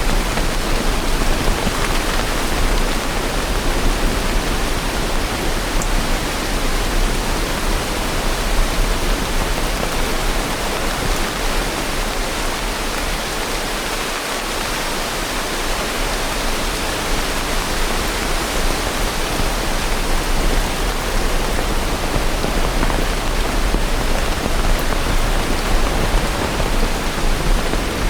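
Steady rain falling as a dense, even hiss, with no single drops or thunder standing out.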